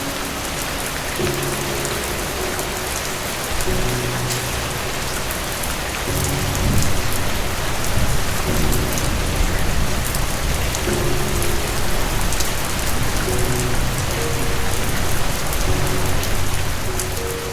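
Steady heavy rain, with a low rumble of thunder swelling about six seconds in. Soft music with held low notes plays under the rain.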